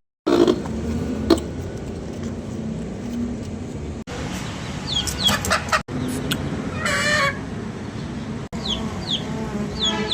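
Chickens clucking, with several short, high, falling chirps from small birds. The sound breaks off abruptly several times.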